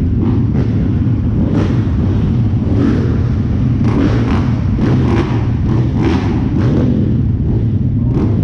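Motocross dirt bike engines running and revving, loud and continuous, with irregular surges of throttle.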